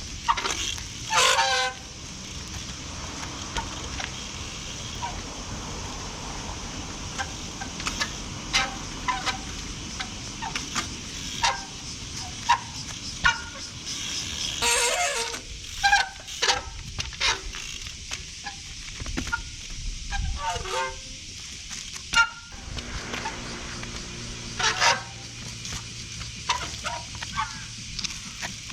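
A trials bicycle ridden in the rain: a string of short knocks and squeals from the bike as it hops and lands, over a steady hiss of rain.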